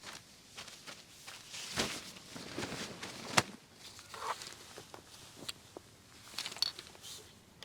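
Footsteps and rustling, irregular and uneven, with a sharp click about three and a half seconds in.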